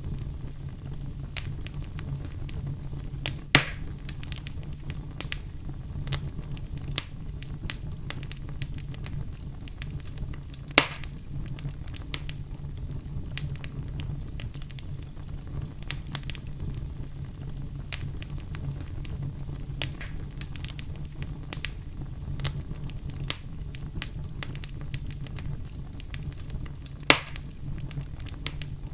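Fireplace fire crackling: a steady low rumble under many small crackles, with three louder pops spread through it.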